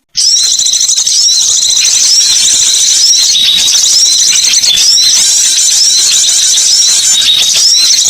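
Bird-lure recording of birds calling, a dense chatter of many overlapping high-pitched chirps and short repeated notes. It starts right after a brief dropout.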